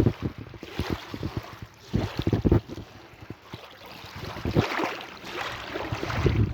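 Sea waves washing and lapping, with irregular low thumps, and a wash of surf swelling about two-thirds of the way through; wind buffets the microphone.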